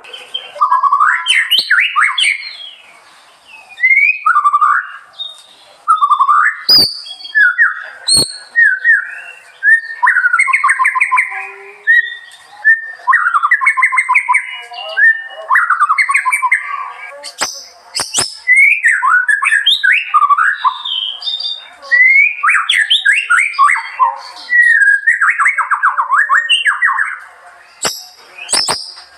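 A songbird singing loud, fast, varied phrases of trills and whistles, with short pauses between them. A few sharp clicks come through the song.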